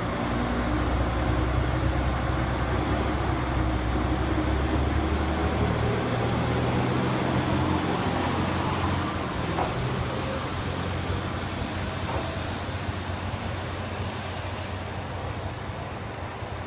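Matsuura Railway MR-600 diesel railcar pulling away, its diesel engine running under load with a low drone and a faint rising whine, the sound slowly fading in the last few seconds as the railcar moves off.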